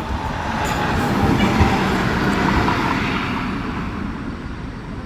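A road vehicle passing close by: a rush of engine and tyre noise that swells to a peak about a second and a half in and then fades away, its pitch dropping slightly as it goes.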